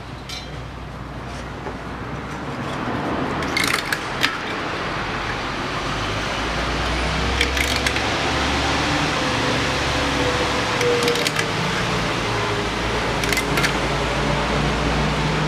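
A steady mechanical whirr, like a fan, that builds up over the first few seconds and then holds, with a few sharp clicks scattered through it.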